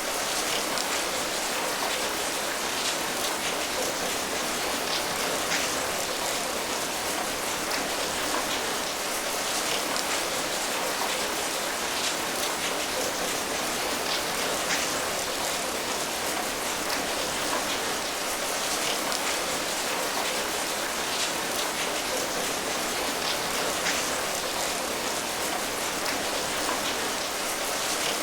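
Steady rain falling, a dense even patter with many distinct drop ticks throughout.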